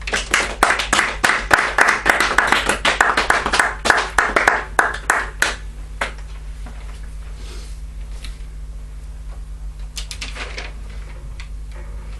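Small audience clapping: dense applause for about five and a half seconds that thins out and stops, then a few more claps about ten seconds in.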